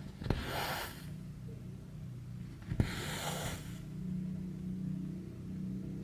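Cross-stitch thread pulled through 11-count stitching fabric: two rasping swishes, each under a second, each beginning with a soft click of the needle. A low steady hum runs underneath.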